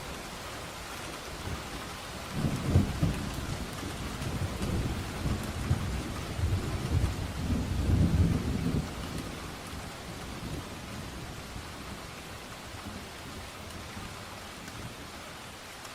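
Steady rain with a roll of thunder: the rumble swells about two seconds in, peaks twice, and dies away after about nine seconds, leaving the rain alone.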